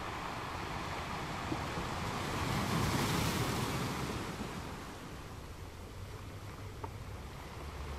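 Wind rushing over the microphone as a steady hiss, swelling for a couple of seconds about three seconds in and then easing.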